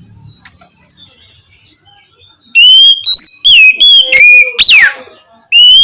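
Oriental magpie-robin singing a rapid run of loud, clear whistled notes, each rising or falling in pitch, after a quiet pause in the first half.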